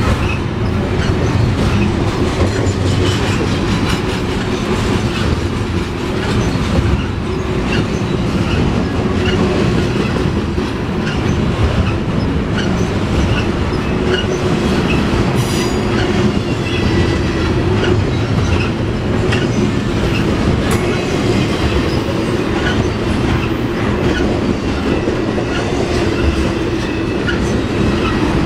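Double-stack intermodal freight train rolling past close by: a steady rumble and clatter of steel wheels on the rails, with brief high-pitched wheel squeals here and there.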